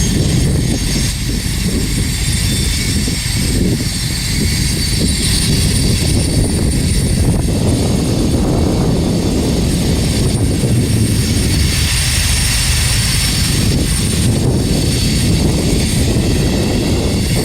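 Freight train rolling past: a steady, loud roar of wheels on rail with a hiss of rail noise and faint high steady tones.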